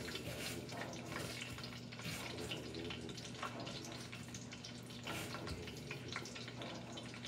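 Breaded chicken nuggets frying in hot oil: a steady sizzle with scattered small crackles and pops.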